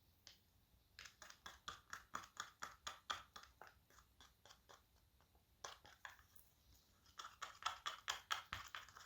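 Two-part platinum silicone rubber being stirred in a cup: a run of quick scraping strokes, about three or four a second, that pauses for a few seconds in the middle and then picks up again.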